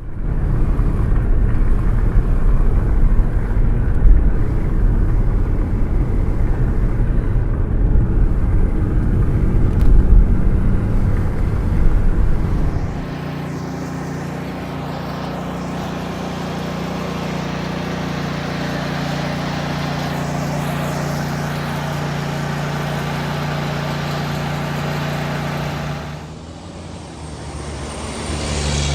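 Heavy construction machinery engine noise: a rough, uneven low rumble for about thirteen seconds, which then settles into a steady, even drone.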